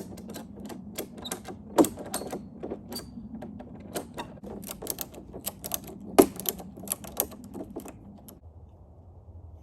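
Ratchet tie-down strap being cranked tight: a run of quick mechanical clicks from the ratchet, with two louder clacks, stopping about eight seconds in.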